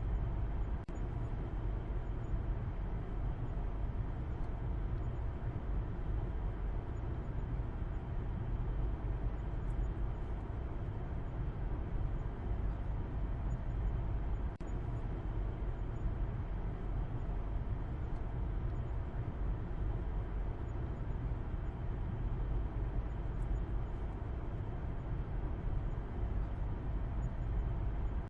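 Steady low rumble of a car on the move: engine and tyre noise running evenly, the sound sold as white noise.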